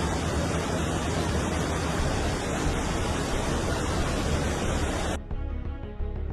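Steady rushing roar of fast-moving floodwater, cutting off suddenly about five seconds in and giving way to soft background music.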